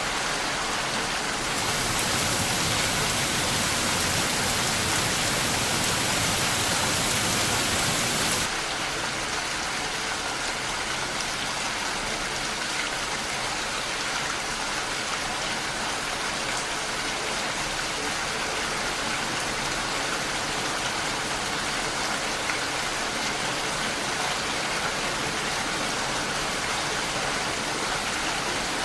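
Steady rainfall, an even hiss of many drops. About a second and a half in it grows louder and brighter, and about eight seconds in it drops suddenly back to a slightly softer, steady level.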